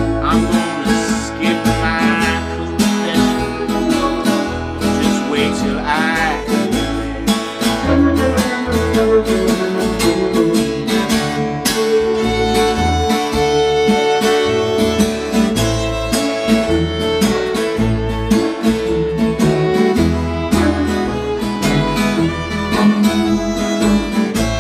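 Americana-blues band playing an instrumental passage without vocals: fiddle over acoustic guitar, electric guitar and bass, with a steady bass pulse. Some sliding notes come about six seconds in, and a long held note follows.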